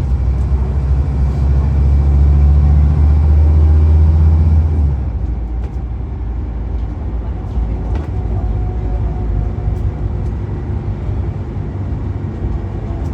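Scania N230UD double-decker bus's diesel engine running under load with a strong steady low drone, which drops away about five seconds in, leaving a lower rumble with a few faint rattles.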